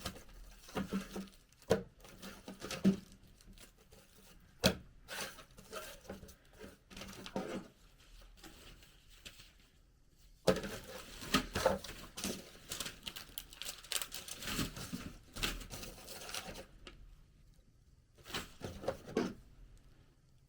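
Irregular knocks and taps with scratchy rustling between them, like materials being handled and worked by hand in a small room.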